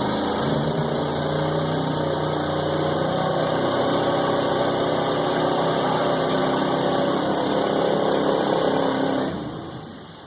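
Mud truck's engine revving hard under load, its pitch climbing over the first few seconds and held high, then cut back abruptly about nine seconds in.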